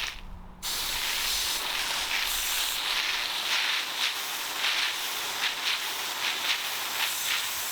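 Water spraying steadily onto a garden bed as plants are watered: a brief spurt, then an even hiss from about half a second in.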